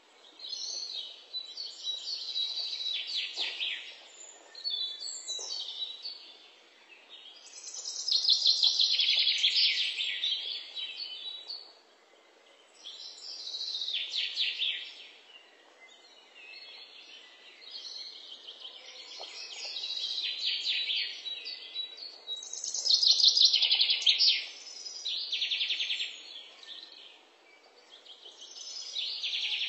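A songbird singing: phrases of rapid high trills that sweep down in pitch, each a second or a few seconds long, repeated every few seconds.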